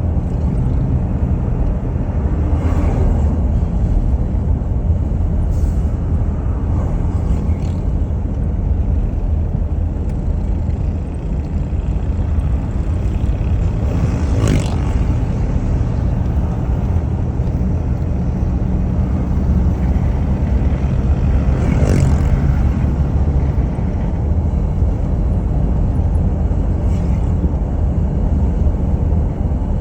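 A steady low rumble, like a vehicle running, broken by a brief sharper noise about fifteen seconds in and another about twenty-two seconds in.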